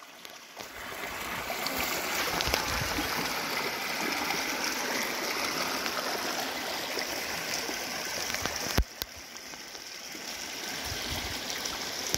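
Steady rushing of rain and flowing rainwater, a dense even hiss. About nine seconds in there is a sharp click, and after it the sound is quieter.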